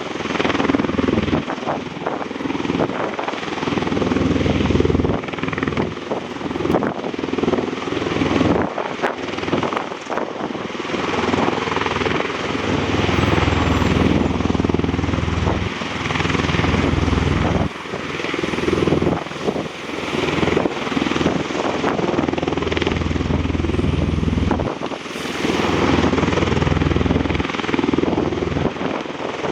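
MV-22 Osprey tiltrotor flying with its two large proprotors and turboshaft engines running: a continuous deep, beating drone that swells and fades as the aircraft moves.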